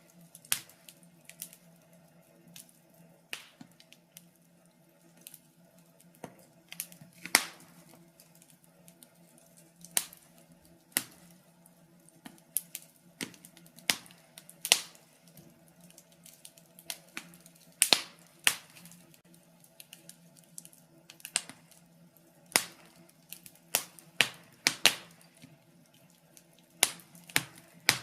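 Wood fire in a fireplace crackling: irregular sharp pops and snaps, a few a second at times, some much louder than the rest, over a faint steady low hum.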